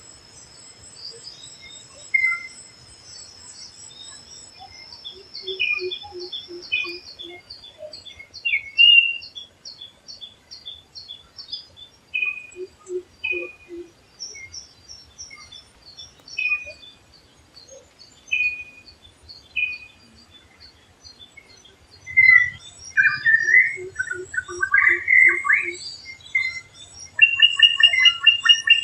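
Several wild forest birds singing and calling together: high whistled phrases and chirps throughout, and three times a run of about six low, evenly spaced hoots. From about two-thirds of the way in, louder, varied calls take over and end in a rapid trill.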